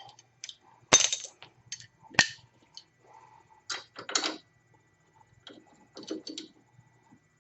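Metal hand tools, wrenches and sockets, clinking and clicking against metal suspension parts: several sharp strikes spaced a second or so apart, the loudest about a second in and just after two seconds.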